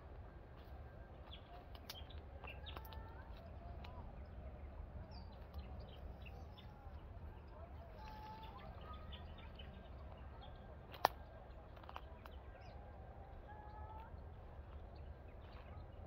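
Birds chirping and calling faintly in short, scattered phrases over a low steady rumble. A single sharp click about eleven seconds in is the loudest sound.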